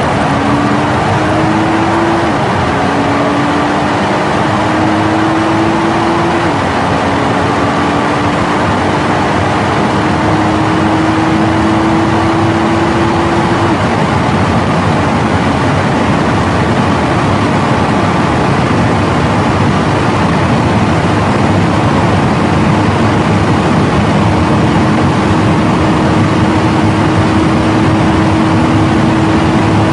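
Car engine pulling through the gears: its note climbs steadily in each gear and drops sharply at each upshift, three shifts in the first half. Later it holds a near-steady cruise note. A loud, steady rushing noise runs under it throughout.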